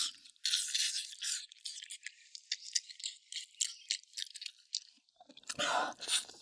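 Close-up wet chewing and lip-smacking while gnawing soft, gelatinous braised pig trotter skin and tendon: irregular short smacks, dense for the first second and a half, sparser in the middle, then fuller and louder chewing near the end.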